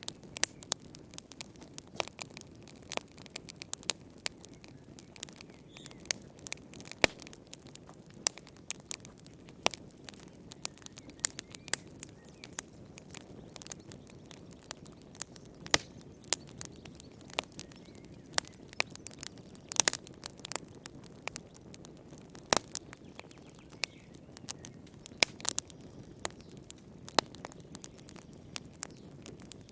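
Wood fire burning in a fireplace, crackling and popping irregularly over a low steady rush of flame, with a few louder pops.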